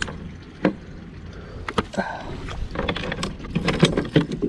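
Irregular knocks and clicks of gear being handled aboard a kayak, coming thicker near the end, over a steady low rumble of wind and water.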